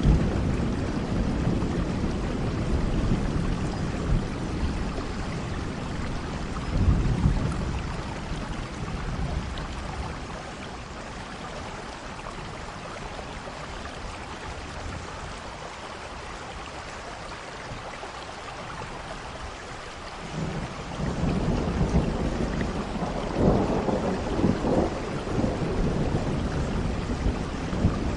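Steady rain with rolling thunder. Low rumbles swell early on, fade to just the rain for several seconds in the middle, then the thunder returns about two-thirds of the way through with louder crackling peaks.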